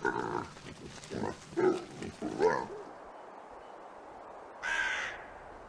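Domestic pigs grunting a few times in the first half, then after a pause a rook gives a single caw near the end.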